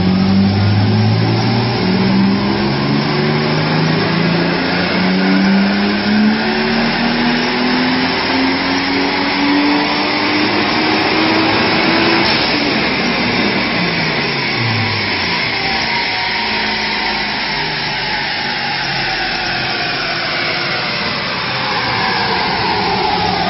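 Turbocharged Toyota Supra Mk4 engine accelerating hard, its pitch climbing in steps through several gear changes for about twelve seconds, then falling away as the car backs off.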